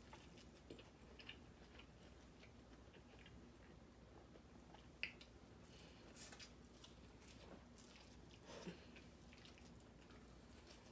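Faint chewing and mouth sounds of a person eating, with a few soft wet clicks and smacks.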